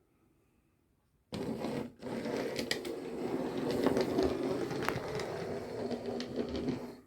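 DC OO gauge model train running on the layout: a steady small-motor whirr with scattered clicks from the wheels on the track. It starts abruptly about a second in, dips briefly, then carries on and stops near the end.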